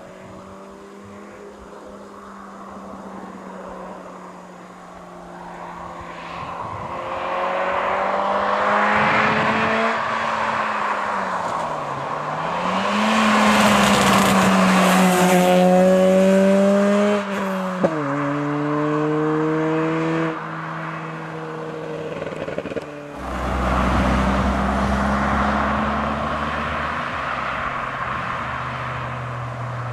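Ford Fiesta 1.7 VCT inline-four engine and exhaust being driven hard: the revs climb and fall through the gears, dropping sharply at each gear change. A deep low rumble comes in for the last few seconds.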